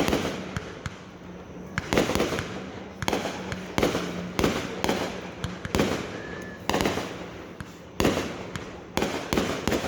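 Fireworks going off: a run of sharp bangs about one or two a second, each with a short echoing tail.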